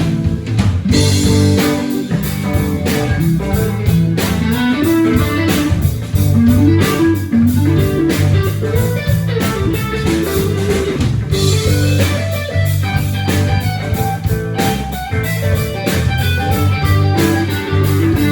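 Live blues-rock band in an instrumental break: electric guitar playing a lead with sliding, bending notes over bass guitar and drum kit.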